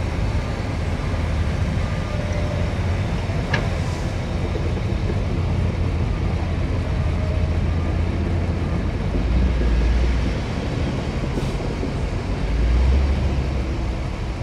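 Heavy diesel earthmoving machinery running: a steady low engine rumble that swells louder twice in the second half, with a brief metallic click about three and a half seconds in.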